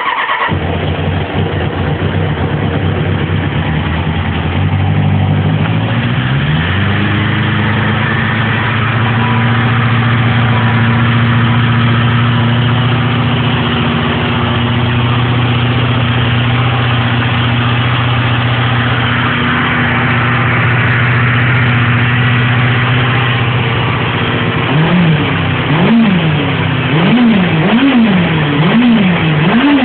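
1997 Suzuki Katana 750's inline-four on its stock exhaust, idling just after a start following a couple of days sitting; the idle rises in pitch about six seconds in and then holds steady. Near the end the throttle is blipped in a run of quick revs, about one a second.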